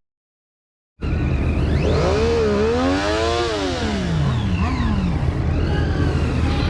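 About a second in, a vehicle engine starts up loud and revs up and back down, its pitch climbing to a peak and falling over about two and a half seconds, then gives a shorter falling rev, over a steady rushing noise.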